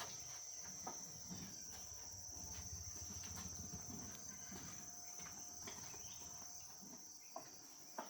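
Insects trilling steadily in one high, unbroken tone, with a few faint knocks, the sharpest near the end.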